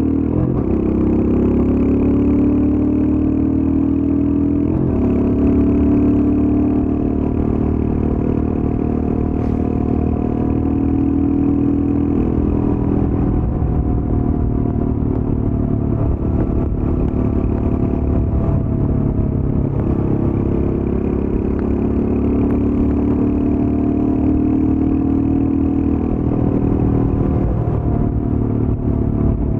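Royal Enfield Scram 411's single-cylinder engine through its stock exhaust, running under load while the bike is ridden. The engine note rises over the first few seconds, then holds fairly steady, dipping briefly a few times.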